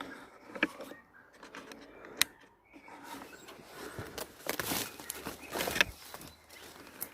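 Rustling footsteps pushing through dense undergrowth, with a few sharp clicks and snaps. The rustling is loudest about four to six seconds in.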